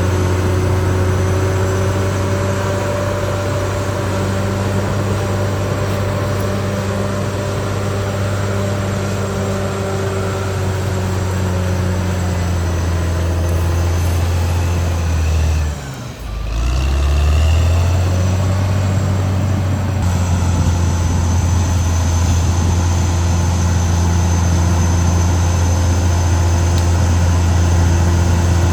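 Caterpillar D6R XL bulldozer's diesel engine running steadily under working load. Its sound drops away briefly about halfway through, then comes back at full strength.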